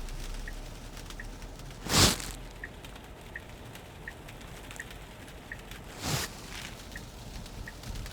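Tesla cabin turn-signal ticking steadily, about one and a half ticks a second, over low road noise. Two windshield-wiper sweeps across wet, snowy glass come about 2 s and 6 s in; the first is the loudest sound.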